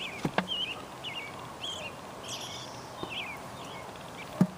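Birds chirping: a run of short warbling notes repeating every half-second or so, with a sharp click shortly after the start and another near the end.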